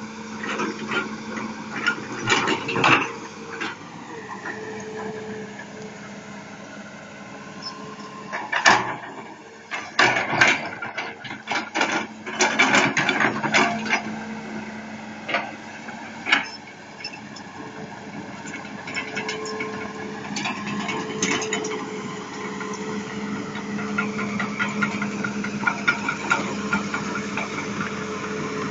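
Isuzu 6BG six-cylinder diesel engine of a Hitachi Zaxis 200 excavator running steadily. A run of sharp clicks and knocks comes through the middle.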